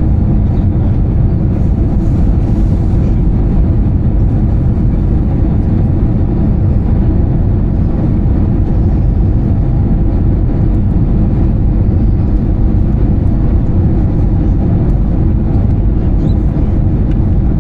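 Steady cabin noise of an Airbus A320-214 in flight: the rumble of its CFM56-5B engines and the airflow over the fuselage, unchanging throughout.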